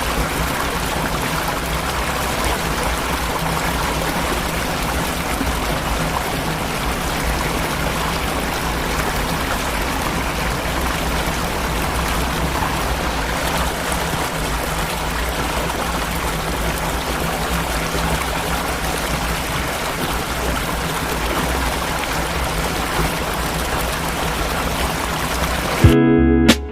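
Steady rush of flowing water, unchanging throughout, with a faint low steady hum beneath it. Plucked guitar music cuts in suddenly near the end.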